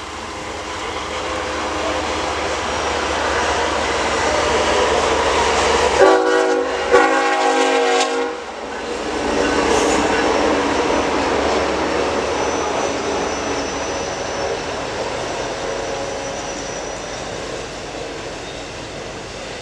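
A train passing on the rails, its rumble swelling and then slowly fading. About six seconds in, the locomotive's air horn sounds a chord in two blasts, the second longer.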